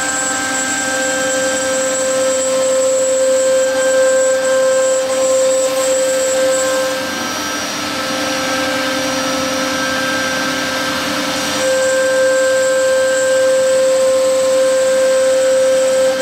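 A 1325 CNC router's 3.5 kW air-cooled spindle running and cutting fiber board, a steady whine over cutting noise. Its strongest tones drop away for a few seconds about halfway through, then come back.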